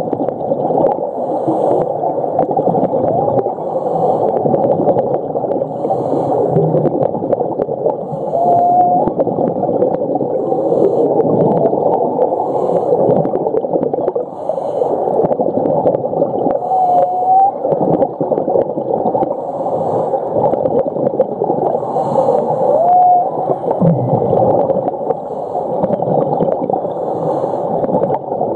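Humpback whale song heard underwater: three short whining calls a few seconds apart, each bending in pitch, over a constant rushing, crackling underwater noise.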